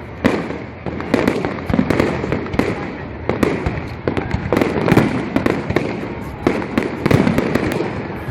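Aerial fireworks display: a continuous run of shell bursts, sharp bangs about once or twice a second, with echoing rumble between them.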